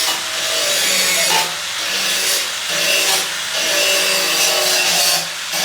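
Wood being sawn or cut with a tool, in repeated passes of about a second each with short breaks between them.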